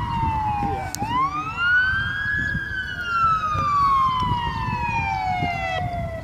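Emergency vehicle siren wailing: the tone falls, sweeps quickly back up about a second in, then falls slowly again before it cuts off near the end.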